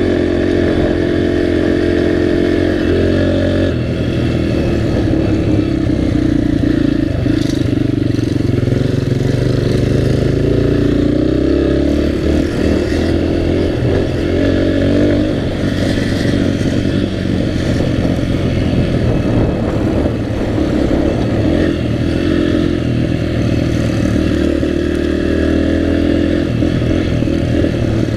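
Dirt bike engine running under load as it is ridden, its pitch rising and falling repeatedly as the throttle is opened and eased off.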